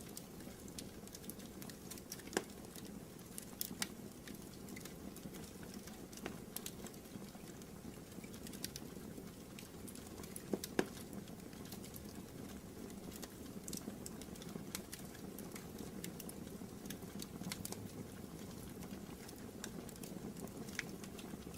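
Wood fire burning in a fireplace: a steady low rumble of flames with irregular crackles and sharp pops scattered throughout, a few louder pops about two and a half seconds in and around eleven seconds in.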